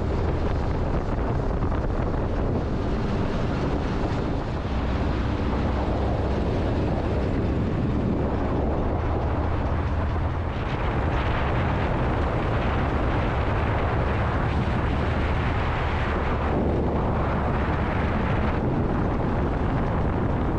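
Straight-piped Ram Longhorn dually pickup running under way: a steady, loud engine and exhaust drone, with wind noise. The note changes briefly a couple of times.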